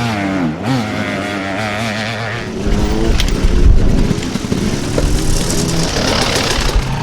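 Dirt bike engine revving with a wavering pitch, then a louder, heavier engine run from about two and a half seconds in.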